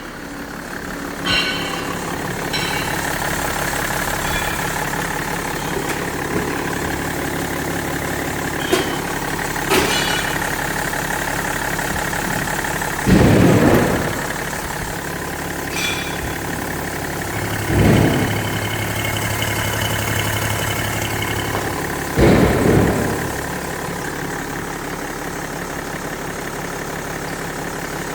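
BMW X5 E53 3.0d's 306D2 straight-six diesel idling steadily, briefly revved three times, about 13, 18 and 22 seconds in, on an engine test.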